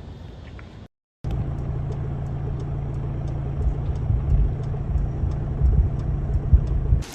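Steady low rumble of a moving motor vehicle, broken by a brief dropout to silence about a second in.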